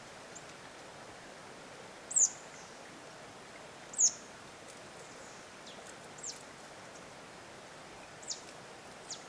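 Short, high bird call notes, each falling in pitch: about six scattered over a steady hiss, the loudest about two and four seconds in.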